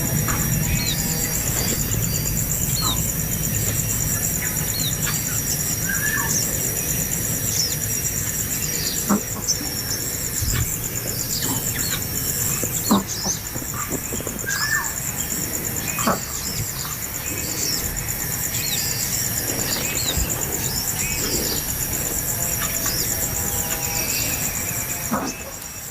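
Birds giving many short chirps, mostly falling in pitch, scattered through the whole stretch, over a steady high, pulsing buzz.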